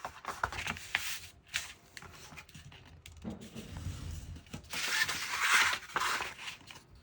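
Cardstock being folded and creased along its score lines: scratchy paper rustling and rubbing, loudest for about a second around five seconds in.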